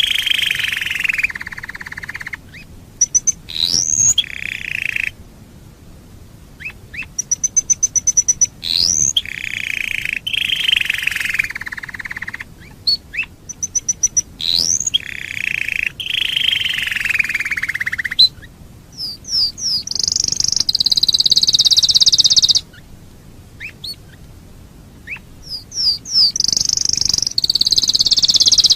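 Domestic canary singing a long song in phrases: rolling trills lasting a second or two, quick upward-sweeping whistles and fast rattling runs of notes, with higher, thinner trills in the second half and short pauses between phrases.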